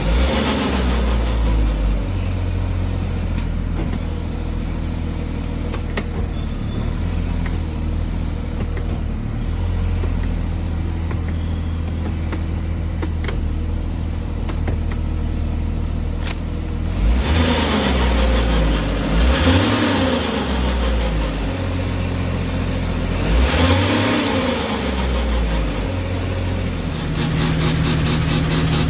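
1996 Jeep Cherokee XJ engine running steadily, revved briefly twice, and a new steady hum joins near the end.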